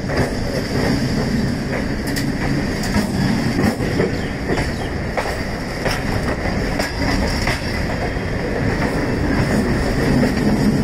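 Indian Railways EMU suburban train running past at close range: wheels clattering over rail joints in a steady stream of clicks, with a steady high-pitched whine over the rumble.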